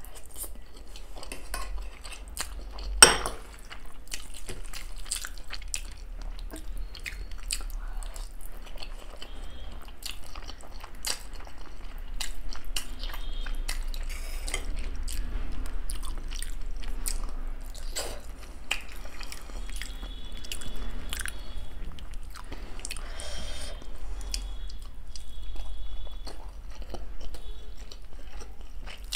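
Close-miked eating sounds: chewing and wet mouth clicks as spicy Maggi instant noodles and other street food are eaten, with one loud sharp click about three seconds in.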